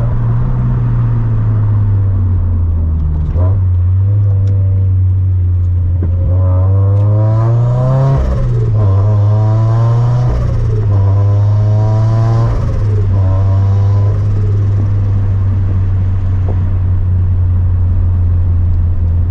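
Turbocharged flat-four engine and aftermarket exhaust of a 2013 Scion FR-S, heard from the cabin with the windows partly down. A steady drone; from about six seconds in, the revs climb and fall back several times under acceleration, then settle into a steady drone again.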